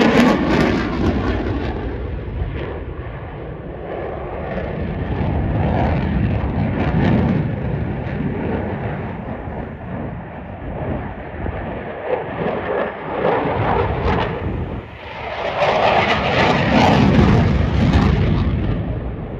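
Jet noise of a Eurofighter Typhoon FGR4's two EJ200 engines as it flies its display. It is loudest at the start, eases off, then swells to a second peak about sixteen to eighteen seconds in.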